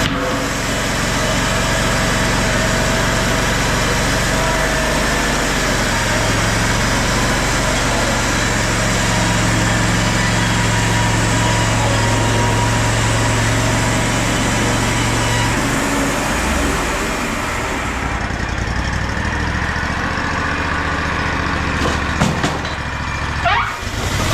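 Sawmill engine running steadily, its pitch stepping up and down a few times as the load changes. A few sharp knocks and a short rising whine come near the end.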